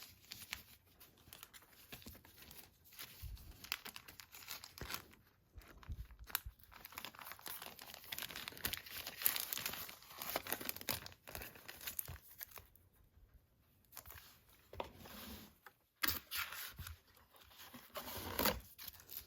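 Cards and paper packaging being handled: faint, irregular rustling and crinkling with small taps and clicks, pausing briefly about two-thirds of the way through.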